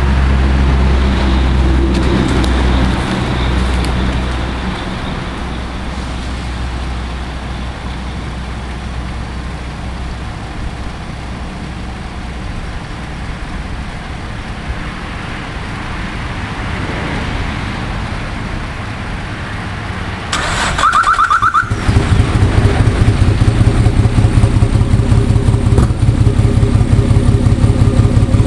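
Nissan RB25DET turbo straight-six: about twenty seconds in, the starter cranks briefly with a whine and the engine catches, then runs loudly with a rapid, uneven pulsing beat, the misfire. Before that, a loud engine sound fades over the first few seconds into a long, quieter stretch of engine noise.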